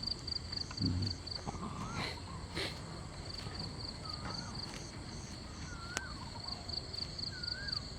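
Night insects, crickets, chirping in regular trains of high, evenly spaced pulses. A few short wavering whistle-like calls from some other small animal come through a few times in the second half, along with a couple of sharp clicks.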